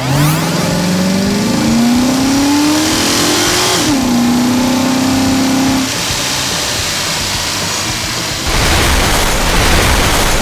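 Vehicle engine sound effect revving up, its pitch rising steadily for about four seconds, then dropping and holding steady for about two seconds. A louder rushing noise comes in near the end.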